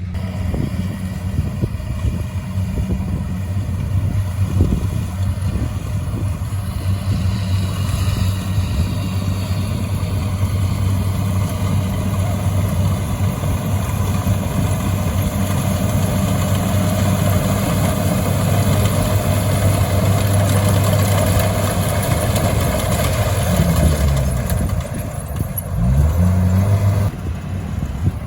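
A motor engine running steadily, its pitch dipping and then rising again near the end.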